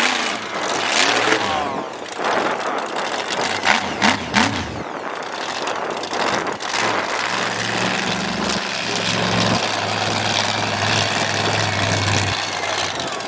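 Monster truck engine running: a few short revs in the first seconds, then settling into a steady idle from about seven seconds in.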